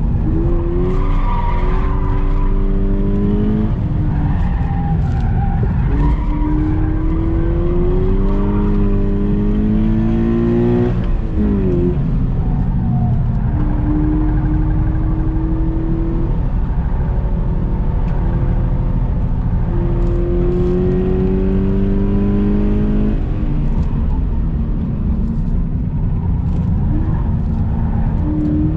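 Subaru BRZ's flat-four boxer engine pulling hard under acceleration, its pitch climbing steadily and then dropping at each gear change, three times, over a constant rumble of road and tyre noise.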